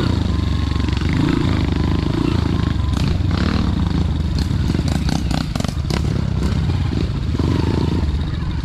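Motorcycle engine running steadily with a low rumble, with a quick series of sharp clicks and clatters about halfway through.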